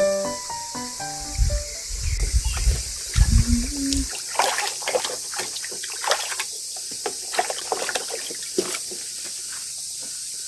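Background music with a stepping melody and bass ends about four seconds in. After that, a steady high chirring of insects, likely crickets, runs on with a scatter of irregular clicks and taps over it.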